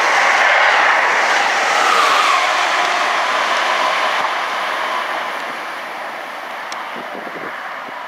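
Amtrak Acela Express high-speed electric trainset passing at speed close by: a steady rush of steel wheels on rail and air that fades away over the second half.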